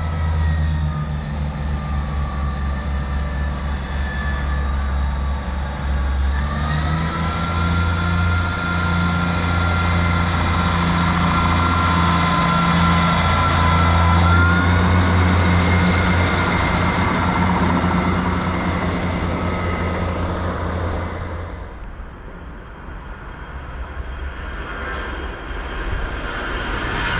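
A heavy engine running with a loud low drone and a steady whine above it. The pitch steps up about a quarter of the way in, and the sound drops away abruptly near the end.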